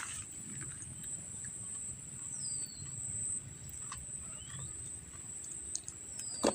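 Rural outdoor ambience: a steady high-pitched insect trill runs throughout, with a low rumble beneath. A few brief gliding bird chirps come in, one falling and one rising, along with a couple of faint clicks.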